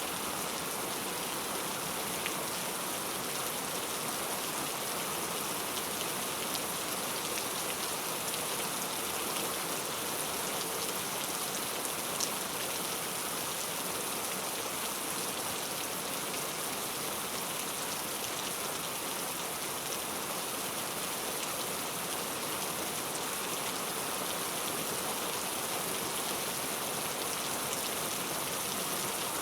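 Heavy rain falling steadily on surfaces, an even hiss of many drops with occasional louder individual drops.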